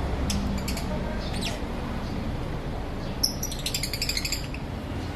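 Lovebirds chirping: a few short high chirps in the first second and a half, then a quick run of rapid chirps a little past the middle, over a steady low background noise.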